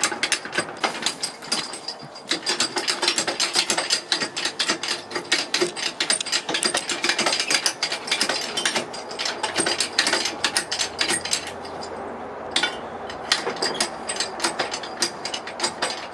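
Rapid, continuous ratchet-like mechanical clicking and rattling of metal parts while an engine is being worked out of a car with a hoist and jack, with a short lull about twelve seconds in.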